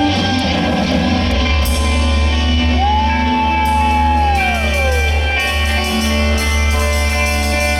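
Live rock band playing with electric guitar, bass and drums. A long held note comes in a few seconds in and bends downward before it stops.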